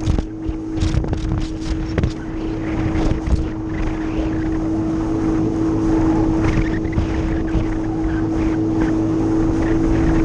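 A jet ski's engine running steadily at speed, with one constant whining tone. Sharp splashing knocks come through in the first few seconds.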